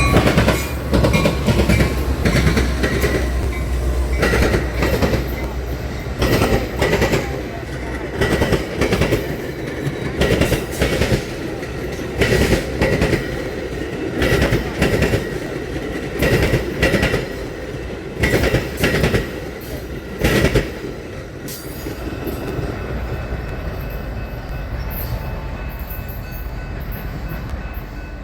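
Metra commuter train's wheels clacking over the rail diamond crossing in loud clusters about every two seconds, as each car's trucks cross, with a faint steady high tone underneath. The clacking stops about three-quarters of the way through, leaving the rumble of the train.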